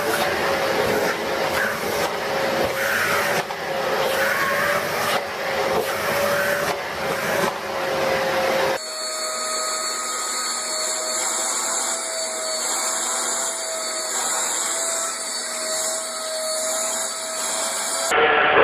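Vacuum cleaner motor running with a steady whine. About nine seconds in it changes abruptly to another vacuum cleaner with a slightly higher, thinner whine.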